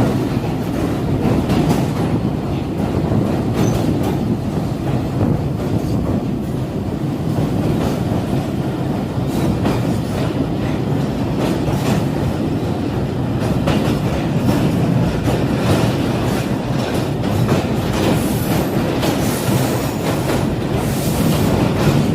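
Train running steadily on the rails, a continuous low rumble with wheels clattering over the rail joints, and a faint high wheel squeal near the end.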